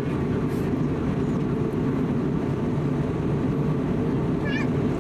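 Steady low rumble of engine and airflow noise inside the cabin of an Airbus A320neo with CFM LEAP-1A engines. A brief high-pitched chirping voice, like a small child's, sounds near the end.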